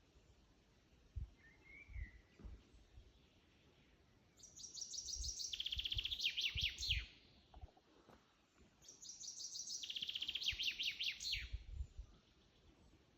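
A songbird singing twice, each song a fast trill of repeated high notes that steps down in pitch and ends in a few down-sweeping notes. A faint call sounds near the start, and there are soft low thumps.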